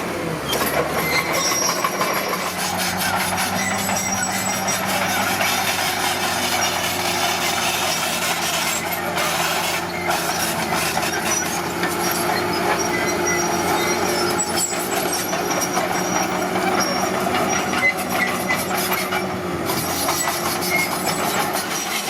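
Komatsu D41P crawler bulldozer running under steady power, its steel tracks clanking with intermittent high metallic squeals.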